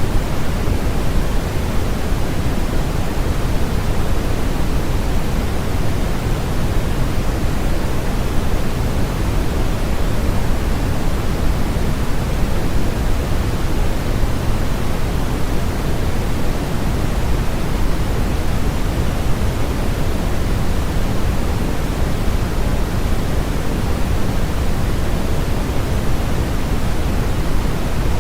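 Steady electronically generated masking noise, an even, unchanging hiss with most of its weight in the lows, tapering off toward the highs.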